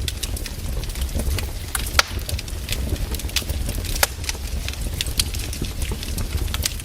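Burning firewood crackling continuously over a low steady rumble, with two sharper pops about two and four seconds in.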